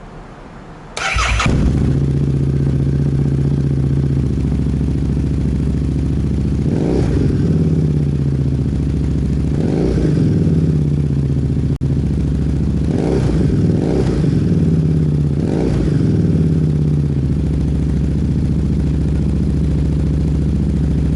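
Harley-Davidson Street Rod's 750 cc V-twin, fitted with a Vance & Hines aftermarket exhaust, starting up about a second in and settling into a steady idle. It is given several short throttle blips, each rising and falling back to idle, before idling on.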